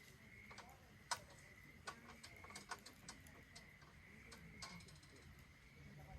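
Faint crackling of a wood fire burning in a Solo Stove Ranger fire pit: a handful of soft, irregular snaps and pops.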